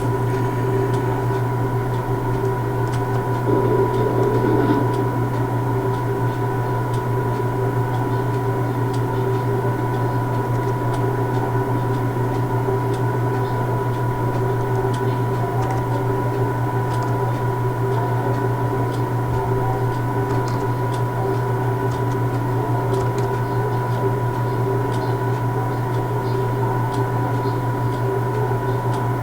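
Steady electrical and mechanical hum of a standing train, with several fixed tones over a low drone and faint scattered ticks. There is a brief swell about four seconds in.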